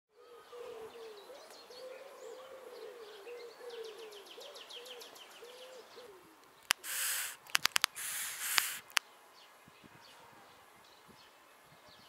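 Low wavering hooting calls repeated in quick succession for about six seconds, with a fast, higher bird trill above them partway through. Then a string of sharp clicks and two short bursts of hissing rustle, the loudest sounds.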